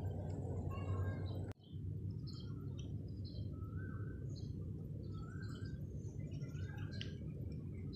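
Small birds chirping in short, scattered calls over a steady low rumble. The sound drops out for an instant about a second and a half in.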